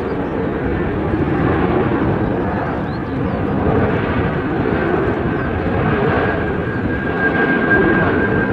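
Steady noise of a fixed-wing aircraft's engines, with a thin whine coming in a little over halfway through.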